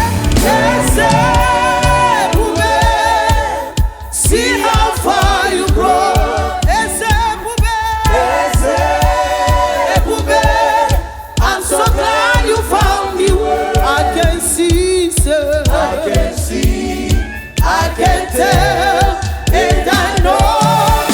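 Gospel praise-and-worship music: several voices singing together over a steady beat, with short breaks in the sound a few times.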